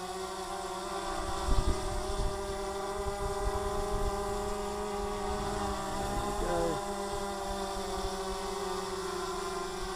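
DJI Mavic Mini quadcopter hovering, its propellers giving a steady buzzing whine, with a brief wobble in pitch about six and a half seconds in. Wind rumbles on the microphone, gusting hardest about a second and a half in.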